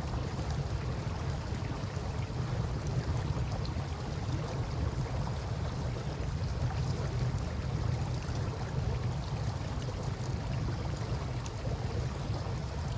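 Riverside ambience: a steady low rumble of wind and moving water, with a few faint crackles from a campfire.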